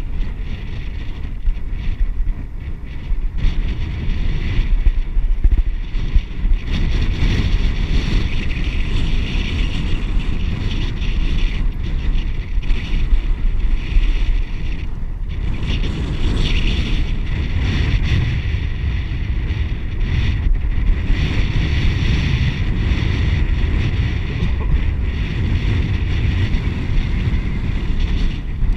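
Wind buffeting the microphone of a camera carried on a moving bicycle: a steady low rush with a hiss above it, rising and falling in gusts.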